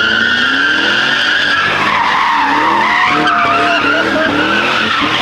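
Car tyres screeching continuously while a car drifts in a sideshow, its engine revving hard underneath. The screech drops lower about two seconds in, then rises again.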